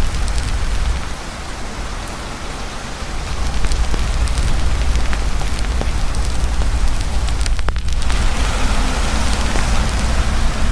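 Heavy rain pouring steadily while a campfire crackles, giving scattered sharp pops over the hiss of the rain and a deep low rumble. It eases a little for a couple of seconds about a second in.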